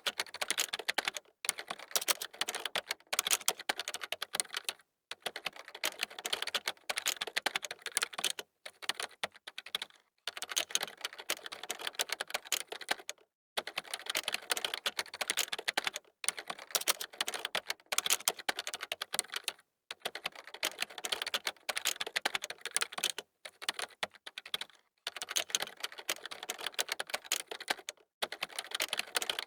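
Computer keyboard typing: fast runs of key clicks, broken every couple of seconds by short pauses.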